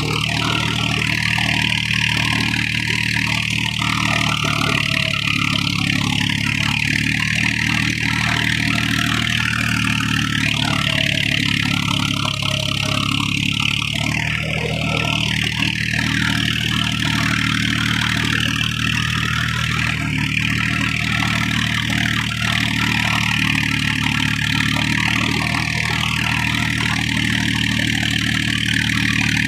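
Tractor engine running steadily at an even speed while pulling a cultivator through a field, with a steady hiss above the engine note.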